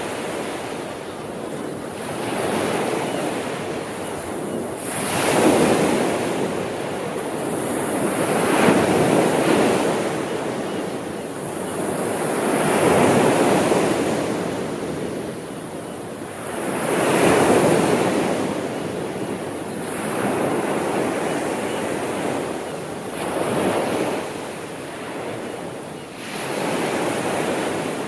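Sea waves breaking and washing up the shore, a rushing noise that swells and falls back about every three to four seconds, seven or eight surges in a row.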